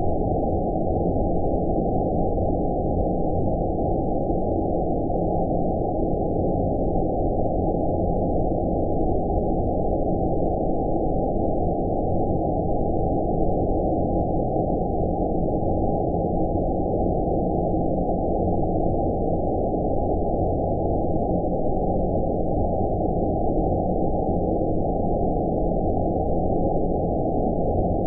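Steady synthetic 'space noise' for sleep: a deep, muffled hiss with all the highs cut off, unchanging throughout.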